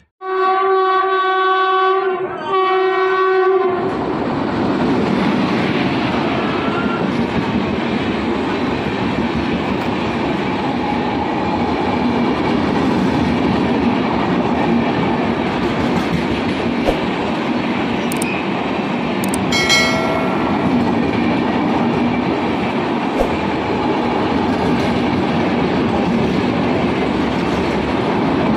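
Express train horn sounding two blasts, the first about two seconds long and the second a little shorter after a brief break. Then the train passes close at speed: a loud, steady rush of wheels on rail. A short horn-like tone sounds briefly about twenty seconds in.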